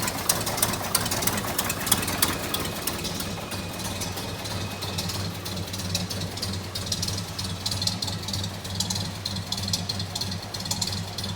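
1929 Buick Master Six's overhead-valve straight-six idling steadily after a cold start, with a fast, light clatter of ticks over the low hum.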